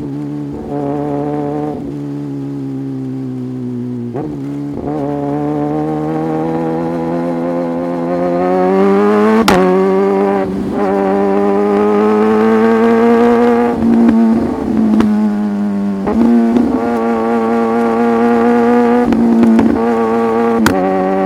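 Sport motorcycle engine running under throttle while riding, its note climbing slowly, with several brief dips where the throttle eases or a gear changes.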